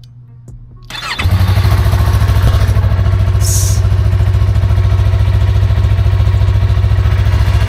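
Motorcycle engine cold-started about a second in, catching almost at once and then running loud and steady at idle with an even pulse.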